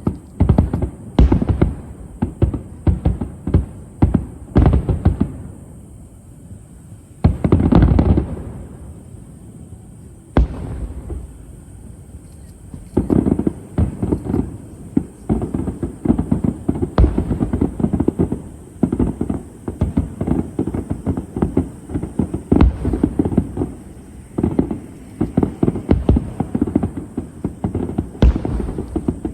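Fireworks display: aerial shells bursting in rapid runs of booms and crackles, with a short lull, one heavy burst, and then a dense, continuous barrage in the second half.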